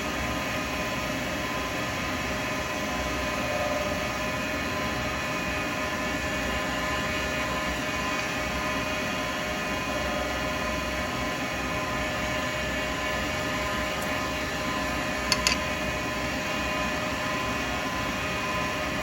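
Wood lathe running steadily while a 12mm round carbide cutter shapes a spinning acrylic pen blank, a continuous motor hum with cutting noise. A couple of quick sharp clicks about fifteen seconds in.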